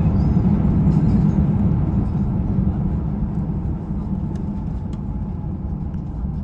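Cabin noise inside a Delta Air Lines Airbus A350-900: a steady low rumble of engines and airflow that gradually grows quieter, with a few faint rattles.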